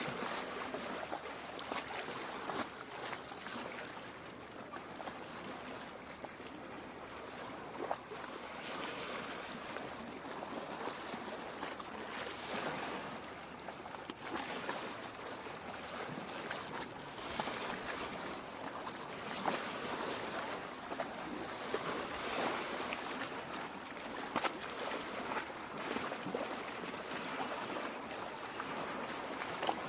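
Lake water lapping and gurgling at a rocky shore: a steady wash broken by many small irregular splashes, swelling and easing gently.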